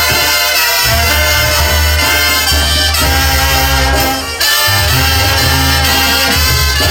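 Mexican banda music: a brass band playing loudly, with stacked brass notes over a low, heavy bass line.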